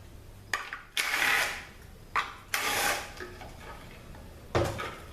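Power ratchet running in two short bursts, backing out the bolts that hold a THM-350 transmission's filter, with a few sharp metal clinks in between.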